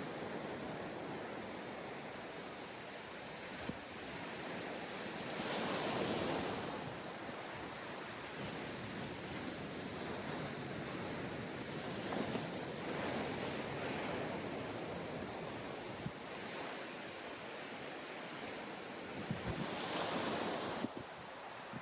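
Surf breaking on a sandy beach, washing in and out, with waves swelling louder about every six to eight seconds. Wind on the microphone runs underneath.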